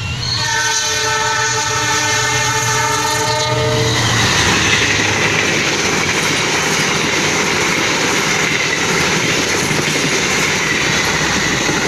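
Passenger train's horn sounding one long chord for about three and a half seconds, then the steady clatter and noise of the coaches' wheels on the rails as the train runs past.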